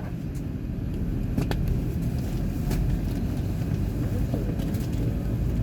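Steady low rumble of an Airbus A350-900's cabin, with a few faint clicks scattered through it.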